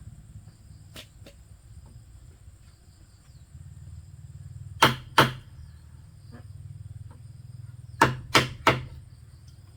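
Sharp blows of a tool striking bamboo: two strikes about a third of a second apart near the middle, then three quicker strikes near the end.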